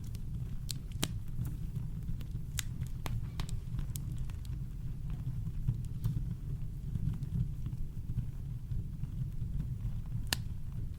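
Campfire crackling: scattered snaps and pops of burning wood over a steady low rumble of brown noise, with one sharper pop near the end.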